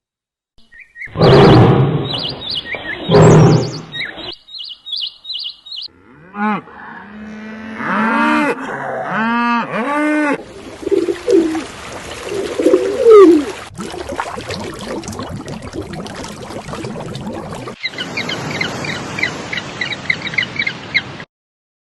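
A run of different animal calls cut one after another: a loud low call, a series of arching calls like cattle mooing, and quick bird chirps near the end.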